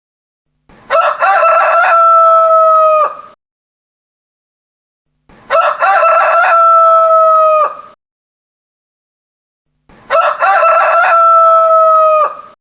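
Rooster crowing three times, each crow about two and a half seconds long and ending in a long held note, with silence between crows.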